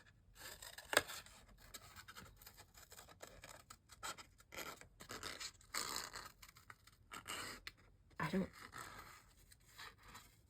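Scissors cutting through watercolor paper: a faint, irregular run of short snips and paper rustles, with one sharper click about a second in.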